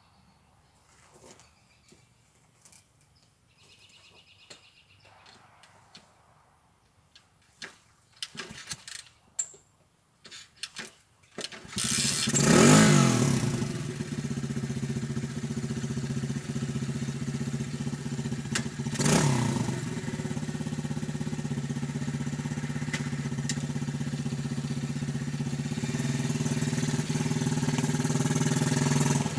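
Dirt bike: a few faint scattered clicks and knocks, then about twelve seconds in the engine starts, revs up sharply twice and settles into steady running.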